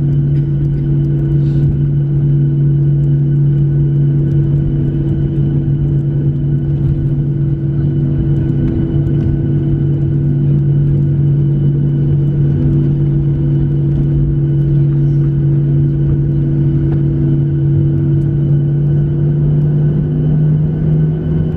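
Steady hum in the cabin of a Boeing 737-700 taxiing after landing, its CFM56 engines near idle, with a faint pulsing tone beneath. Near the end one tone starts to rise slightly.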